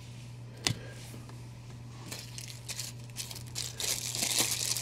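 Packing material crinkling and tearing as a statue is unwrapped from its box, starting with a sharp click under a second in and growing louder toward the end, over a steady electrical hum.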